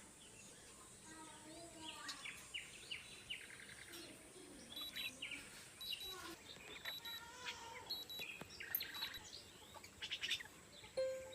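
Young Chinese hwamei (画眉鸟) calling faintly. It gives a string of quick sweeping chirps and short whistled notes. This is a captive-bred young male that has just begun to sing.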